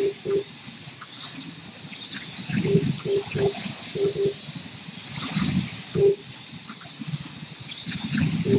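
Electric slot car motors whining around the track during a race, a steady high whir. Short low tones come again and again through it, often in pairs.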